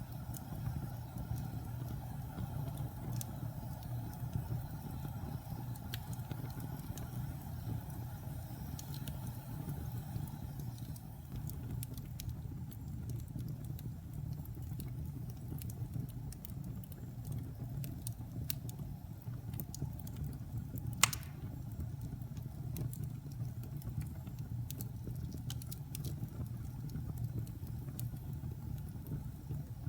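Wood fire burning in a fireplace: a steady low rush with scattered small crackles, and one loud sharp pop about two-thirds of the way through.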